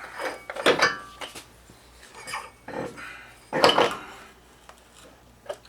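Metal parts and hand tools clinking and clattering against each other in a few separate short clanks, the loudest about three and a half seconds in.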